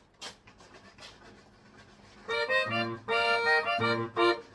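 Barrel organ (orgue de barbarie) starts playing a Christmas tune about two seconds in, with sustained chords over a pulsing bass. Before that there are only a few faint clicks.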